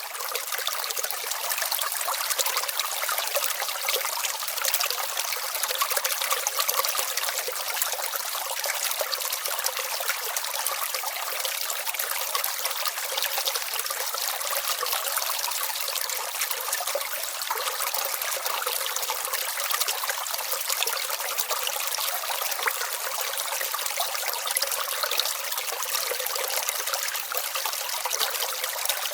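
Small brook babbling steadily, its water trickling in a dense patter of little splashes.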